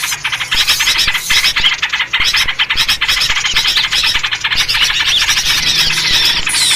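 Dense, continuous chattering of many small birds, rapid scolding notes packed close together, with a few short falling whistles near the end: a noisy bird-lure recording of agitated birds, played to draw wild birds in.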